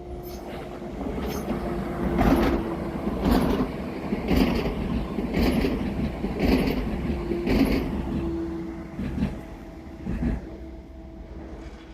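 Passing train, its wheels clattering in a regular rhythm about once a second, over a steady rumble and hum; the clatter fades near the end.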